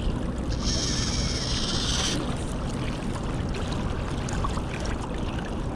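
Steady low rush of the flooded river, with a high whirring hiss for about a second and a half near the start as fishing line runs off the reel during a cast.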